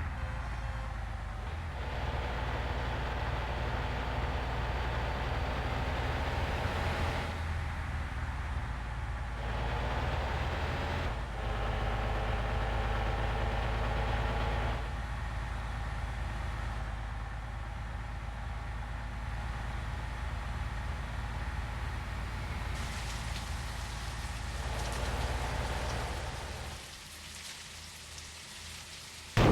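Vehicle running on the road: a steady low engine rumble with hissing road noise, shifting every few seconds and easing off near the end.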